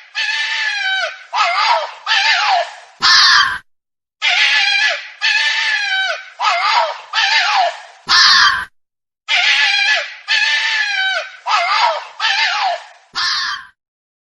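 A bird giving harsh calls, about five to a run. The same run is repeated three times with short pauses between.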